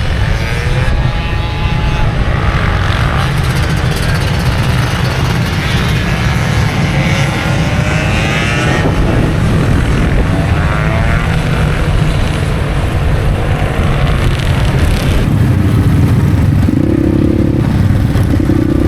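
Motorcycle engines running over a steady low rumble, with several bikes rising and falling in pitch as they rev or pass. Near the end, steadier engine tones hold.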